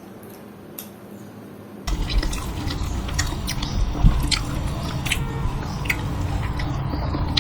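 Close chewing and mouth sounds of someone eating dosa, with scattered sharp clicks and crackles. About two seconds in, a louder steady low rumble comes up behind the eating sounds.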